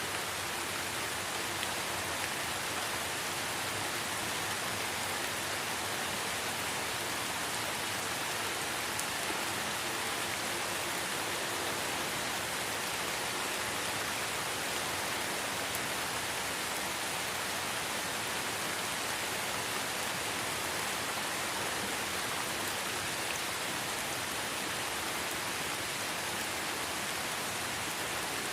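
Light rain falling steadily in a forest: an even hiss of drops on leaves and ground, with a few faint separate drips.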